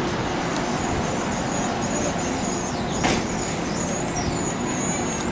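Electric trains moving through the station: a steady rolling rumble with thin, wavering high squeals from wheels or brakes. A brief sharp noise with a quickly falling squeal comes about three seconds in.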